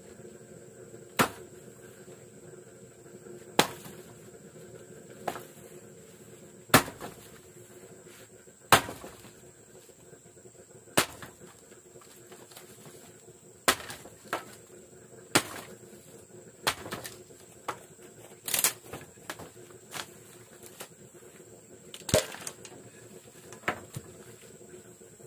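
A series of sharp knocks at irregular intervals, roughly one every one to two seconds, over a faint steady high-pitched whine.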